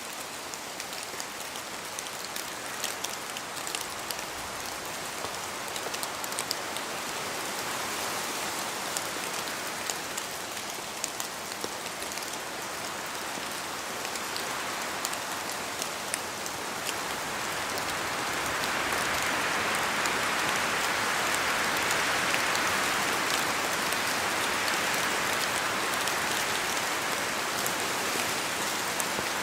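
Steady rain falling in a spruce forest, with many sharp drops ticking through a constant hiss, and wind through the spruce trees. The rushing swells louder about two-thirds of the way through, then eases slightly.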